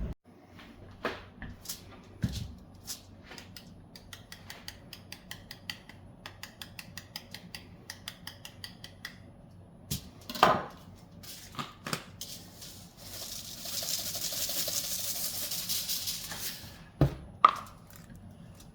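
Food-prep handling sounds: a run of quick, light clicks lasting several seconds, then a few louder knocks and about three seconds of hissy rustling.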